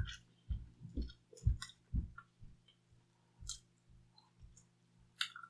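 A person biting into and chewing thin-crust pizza: soft chews about twice a second for the first two seconds, then sparser crisp clicks, one louder near the end.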